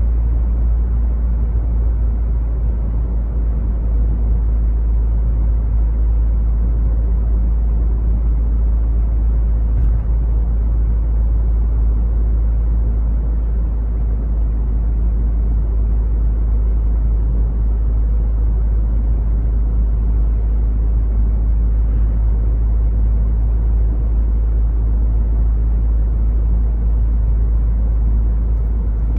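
Toyota 86's FA20 flat-four through a Kakimoto Class KR quad-outlet exhaust, heard inside the cabin while driving: a steady, very low-pitched exhaust drone holding an even pace.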